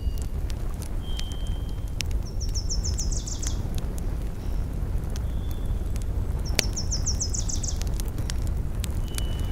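A bird repeating a short, fast high trill about every four seconds, with brief thin whistles between, over a steady low rumble of outdoor ambience.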